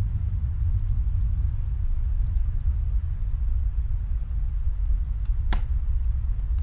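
Log fire crackling in a fireplace over a steady low rumble, with sparse small pops and one louder crack about five and a half seconds in.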